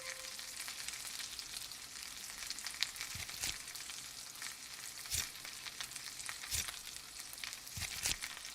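Thick slices of fresh pork belly sizzling on a grill over a hot wood fire, with a steady hiss and a few sharp pops and crackles.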